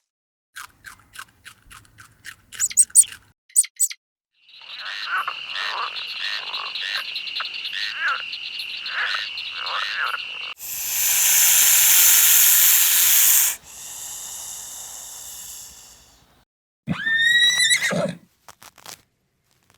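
A run of separate sounds one after another: scattered clicks, a steady high chirring with repeated calls over it, and a loud rushing noise that drops away. Near the end, a horse whinnies once, its pitch falling.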